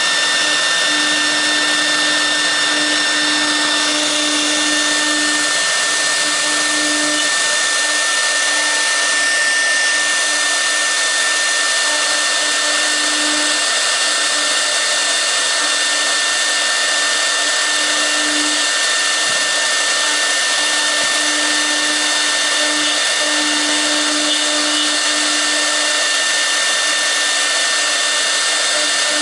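CNC router's 6 kW air-cooled spindle running at speed, its cooling fan giving a steady rushing noise with a constant high whine, while a V-bit carves the workpiece. A lower hum comes and goes throughout.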